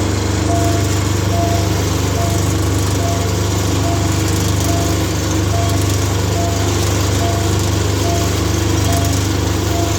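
Diesel train engine running loud and steady close by, with a low, heavy hum. Over it the level-crossing warning bell rings evenly, about once every 0.7 seconds.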